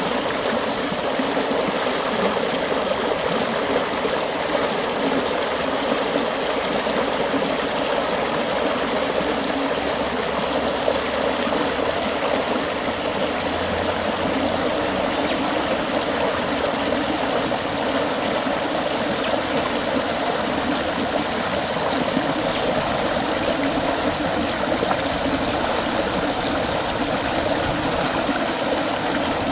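Creek water running over rocks: a steady, even rushing and trickling that does not change.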